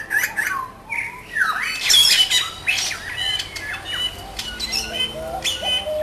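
A bird calling: a few falling whistled notes, then loud harsh squawks repeating about once a second. Soft background music comes in during the last couple of seconds.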